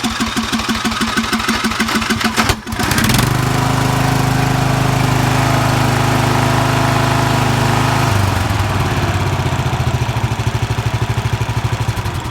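Murray lawn mower engine running just after a cold start: rough and uneven at first, with a brief dip about two and a half seconds in. It then runs steady at a higher speed and drops to a slower, pulsing run about eight seconds in. The owner reckons it needs rings, valves and piston work.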